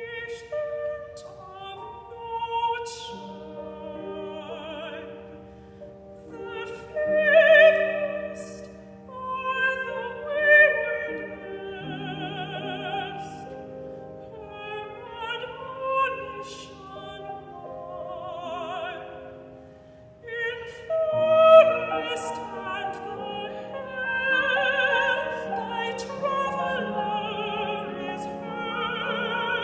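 Mezzo-soprano singing a classical art song with vibrato, accompanied by piano, with two louder swells in the vocal line.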